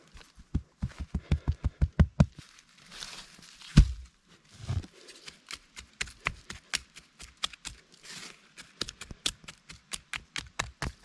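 Rapid, rhythmic knocking and tapping, about four or five strokes a second. Heavier thumps come first, two louder thumps follow around the middle, and lighter, sharper taps run through the second half.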